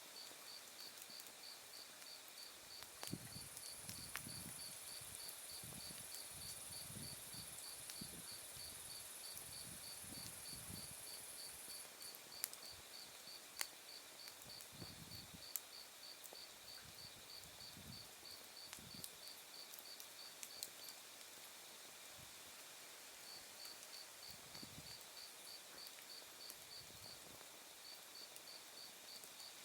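Autumn crickets chirping in an even pulse of about three chirps a second, with a second, higher insect trilling steadily from about three seconds in until about twelve. A wood fire crackles with a few sharp pops and a soft low rush of flame.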